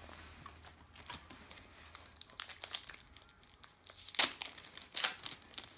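Plastic wrapper of a trading-card packet crinkling and crackling as it is torn open and handled, with sharp crackles that are loudest about four seconds in and again about a second later.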